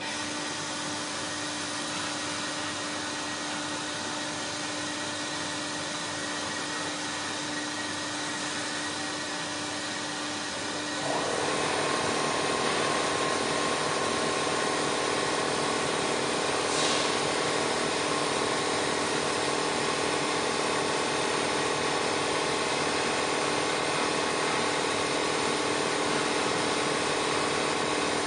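Automatic pole welding machine running with a steady mechanical hum; about eleven seconds in it gets louder and fuller as more of the machine comes under way, then runs on evenly.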